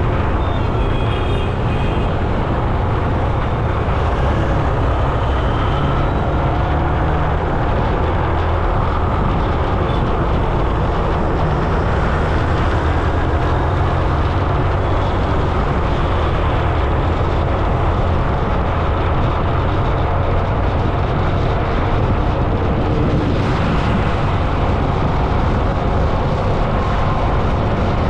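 Steady road noise heard while riding along a road, a continuous heavy low rumble with no letup.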